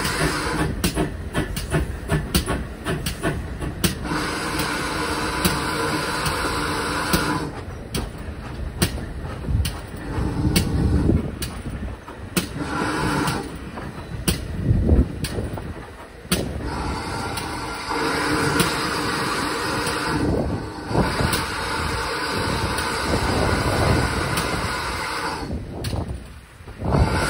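Steam-hauled train running along the track, with many sharp clicks and knocks and stretches of steady tones that come and go.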